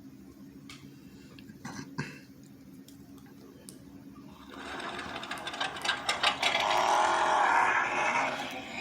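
Recorded car engine sound: a low steady hum with a couple of clicks, then about halfway through a much louder, rising mechanical engine noise with wavering tones.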